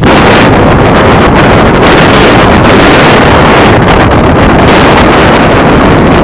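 Storm wind buffeting the microphone together with heavy rain: a loud, steady rushing roar that starts abruptly.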